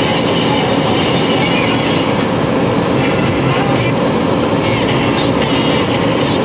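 Aftermarket car stereo playing a radio station through the car's speakers, a loud and steady sound.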